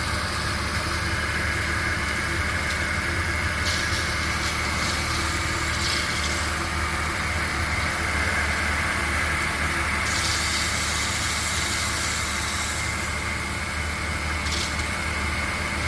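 2000 Porsche Boxster 2.7's flat-six engine idling, with a steady high whine from the serpentine belt area, which the owner suspects is the power steering pump or the AC compressor.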